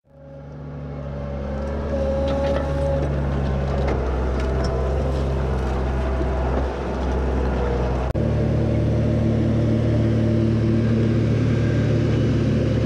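Diesel tractor engine running steadily under load. It fades in at the start, and about eight seconds in there is an abrupt change to a different, steadier engine note.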